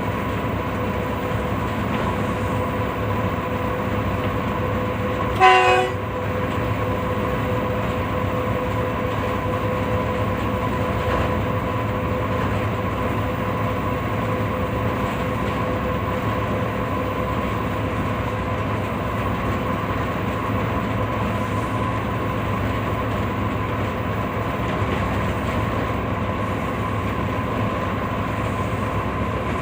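Pakistan Railways 5 Up Green Line Express running steadily along the track, with a constant rumble and a steady humming tone. About five and a half seconds in comes one short blast of the horn.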